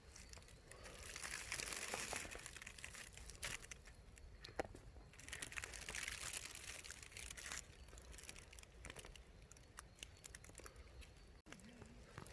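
Rustling and crinkling noise with scattered small clicks, loudest in two spells of about two seconds each.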